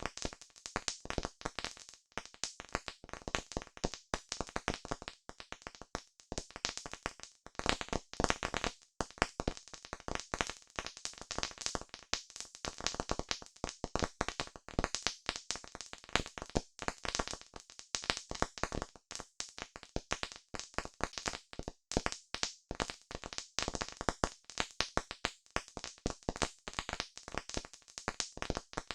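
Campfire crackling: a dense, irregular run of sharp pops and snaps from the burning wood, several a second.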